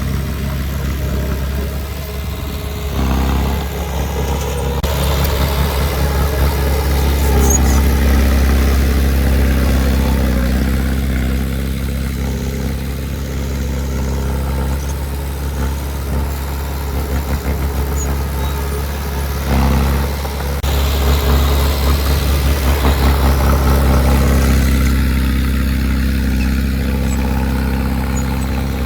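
Heavy diesel engine of earthmoving machinery running with a steady low drone, swelling louder twice, about a quarter of the way in and again past two-thirds.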